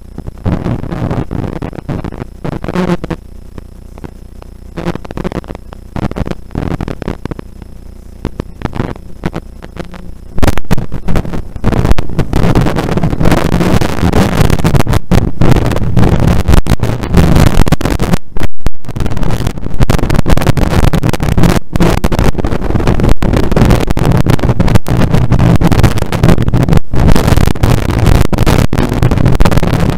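Rally car engine revved in short bursts for the first ten seconds. About ten seconds in it pulls away hard at full throttle and keeps running loudly as the car accelerates, with brief breaks in the sound.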